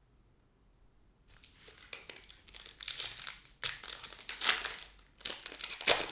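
Foil trading-card pack wrapper crinkling and tearing as it is opened. It starts about a second in and comes in several loud bursts.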